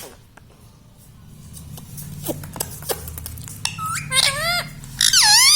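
Ring-necked parrot vocalising: a few small clicks, then two loud calls with a rapidly wavering pitch, the second one the loudest, near the end.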